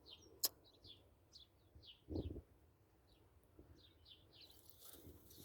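Faint, repeated short high chirps from a small animal, two or three a second, falling in pitch, with a sharp click about half a second in and a low thump about two seconds in.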